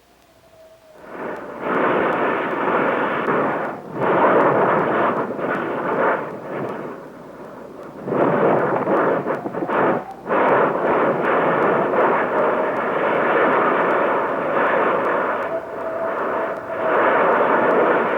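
Erupting volcanic vent on Kilauea: a loud rushing roar of lava and gas surging out. It swells in about a second, drops away sharply a few times and surges back.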